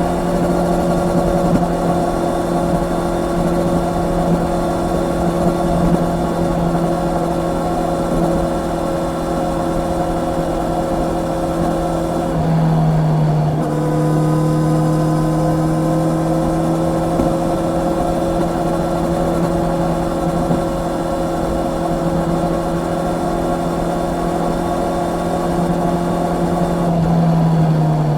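Honda CB650R's inline-four engine under way, holding a steady note with wind rushing past. About halfway through the pitch drops abruptly, as from a quick-shifter upshift, then slowly climbs as the bike pulls. Right at the end the pitch falls as the throttle is eased off.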